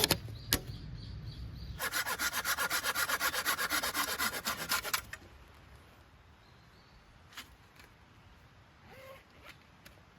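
Silky Gomboy folding hand saw cutting firewood with fast, even back-and-forth strokes. The sawing pauses briefly near the start, runs again for about three seconds and stops about five seconds in, followed by a few light clicks.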